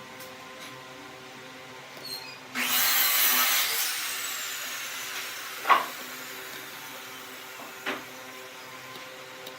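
Wood lathe running with a steady hum; about two and a half seconds in, a turning tool cuts into the spinning wood with a loud scraping that fades away over a few seconds, followed by two sharp knocks.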